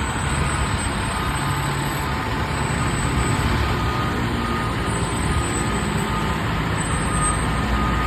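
Fire engine's diesel engine running with a steady low rumble. A faint, high reversing alarm begins beeping in the second half as the engine starts backing into its station.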